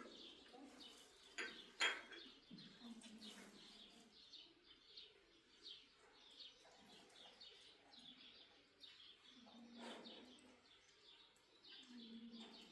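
Faint bird chirping: a long run of short, high, falling notes, a few each second. A sharp knock about two seconds in and a softer thud later on.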